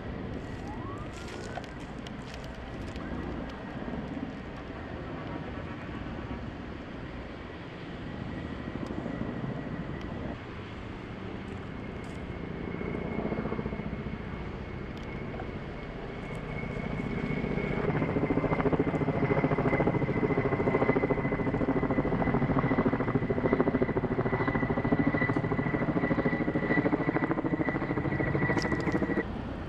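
Steady engine noise that grows louder about halfway through, with a high, steady whine over it, cutting off abruptly near the end.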